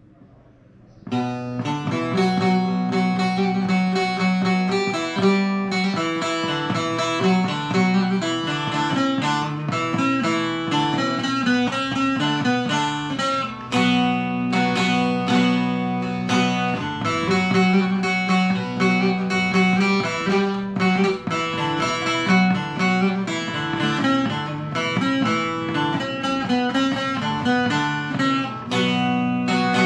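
Bağlama (long-necked Turkish saz) playing a folk melody with fast plucked notes, starting about a second in.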